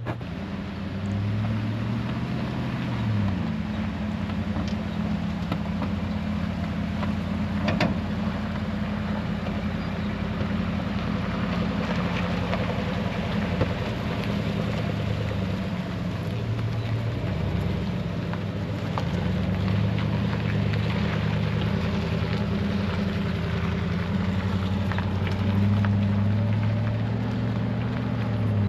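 Pickup truck's engine running as it drives, its pitch shifting up and down with engine speed over road and wind noise.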